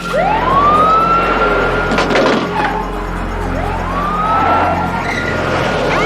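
Police car sirens winding up from low to a high, held wail, twice, about three and a half seconds apart, with film score music underneath.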